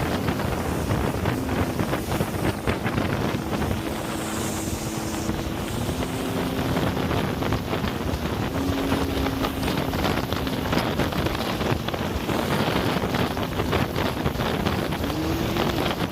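Jet ski engine running under way, its pitch shifting up and down with the throttle. Heavy wind buffets the microphone, with water rushing and slapping.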